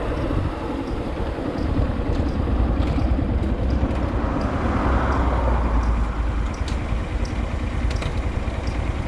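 Motorcycle riding on the road, its engine running under a steady rumble of wind on the microphone.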